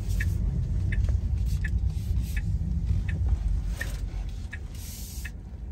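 Low rumble of a car on the move, with a turn-signal indicator ticking evenly about every three-quarters of a second.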